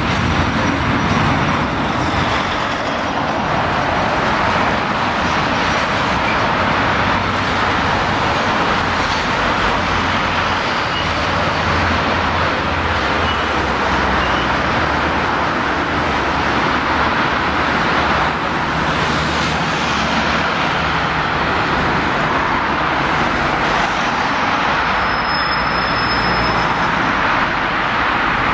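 Diesel shunting locomotive running as it pushes a string of freight wagons slowly along the track, a steady rumble mixed with road traffic noise. A brief high squeal comes near the end.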